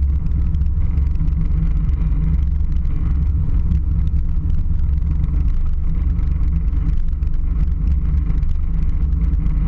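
Steady low rumble of cabin noise inside a passenger aircraft.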